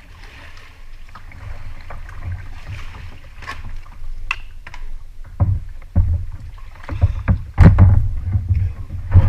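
Kayak paddling on the sea: irregular water splashes against the boat, with wind rumbling on the action-camera microphone. It grows much louder about halfway through.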